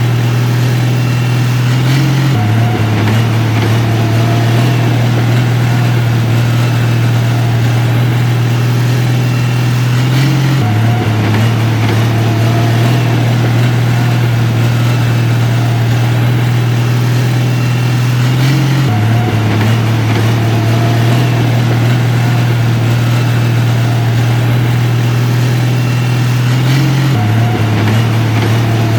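Diesel engine of heavy construction machinery running steadily with a low drone. Its pitch shifts slightly at regular points, about every eight seconds.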